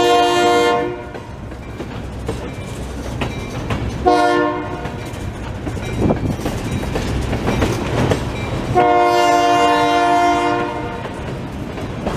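Freight train cars rolling past with a steady clatter of steel wheels on the rails. The locomotive's multi-note horn sounds three times: a blast ending about a second in, a short one about four seconds in, and a longer one of about two seconds near the end.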